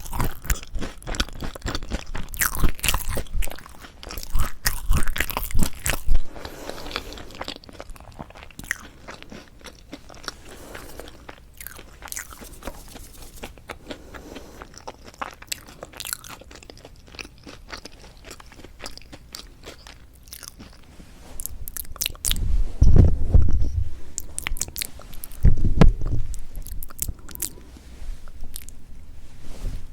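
Close-miked biting and chewing of a toasted salad bread with a crisp, slightly burnt crust. Dense crunching for the first six seconds gives way to quieter chewing, with two louder stretches of crunching a little past twenty seconds in.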